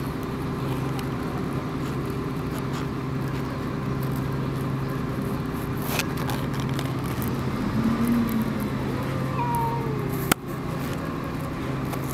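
Two cats in a standoff, yowling at each other: a low drawn-out growling call about eight seconds in, then a yowl that slides down in pitch. A steady hum runs underneath, and there is one sharp click near the end.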